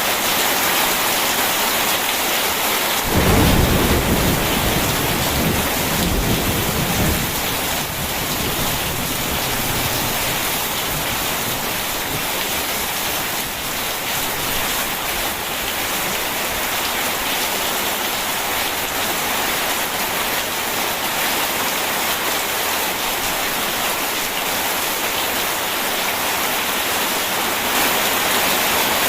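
Steady heavy rain, with a rumble of thunder that breaks in suddenly about three seconds in and rolls away over the next five seconds or so.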